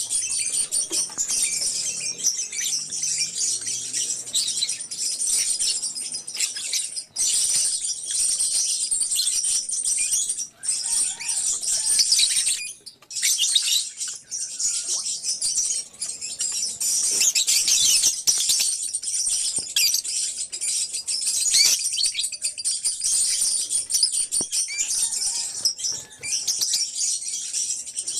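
A colony of lovebirds chirping and chattering nonstop in shrill high calls, with a brief lull about twelve seconds in.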